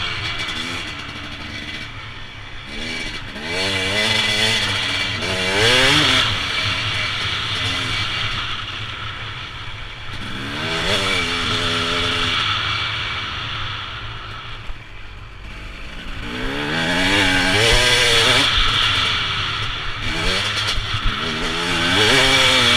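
Motorcycle engine revving up and down repeatedly while riding, its pitch climbing in several surges of acceleration and dropping back between them.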